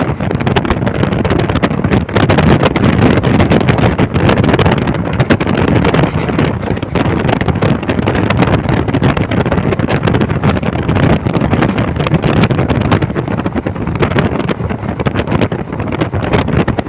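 Passenger train running steadily, with heavy wind buffeting the microphone.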